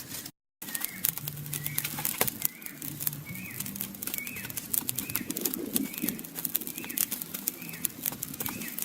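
A bird's short chirping call repeated evenly, about one and a half times a second, over many sharp crackling clicks and a low steady drone that changes pitch now and then.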